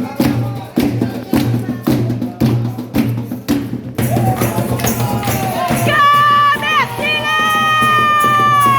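Candomblé ritual hand drumming in a steady beat of about two strokes a second, which stops about four seconds in. High-pitched, drawn-out cries follow, the last held long and then falling in pitch near the end.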